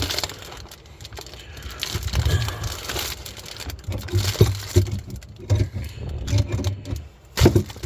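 Irregular clinks, rattles and knocks of an adjustable wrench and hands working on a dishwasher's water supply line fitting under a cabinet.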